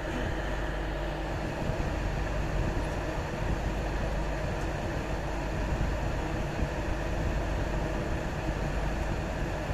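Moving train: a steady rumble of the ride, with no distinct events.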